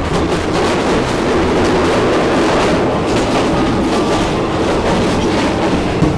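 Passenger train running at speed, heard from the vestibule between carriages: a loud, steady roar of wheels and rails with repeated clattering knocks.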